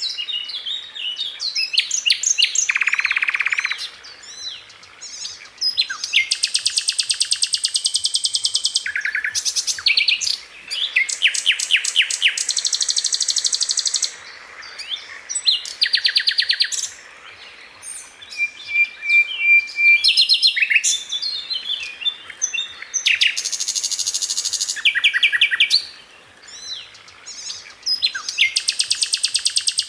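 Sikatan londo, a flycatcher, singing in rapid-fire bursts: runs of fast, evenly repeated high notes and chattering trills, each lasting a second or two with short pauses between.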